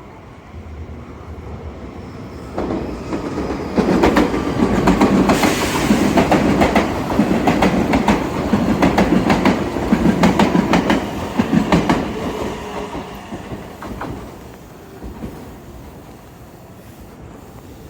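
A 315 series electric train running past, its wheels clacking over rail joints. It builds over the first few seconds, is loudest in the middle and fades away near the end.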